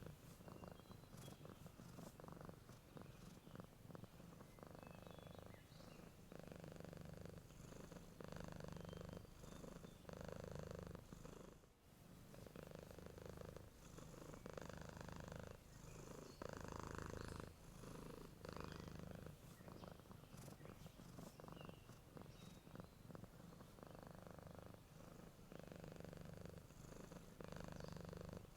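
Domestic cat purring close up, the purr swelling and fading with each breath every second or two, with a brief pause about halfway through. Faint short bird chirps sound now and then behind it.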